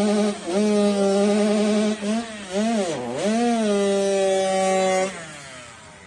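KTM 85 two-stroke motocross engine held at high revs in a burnout, with a few brief dips and a sharp drop and recovery about three seconds in. About five seconds in the throttle closes and the engine note falls away and fades.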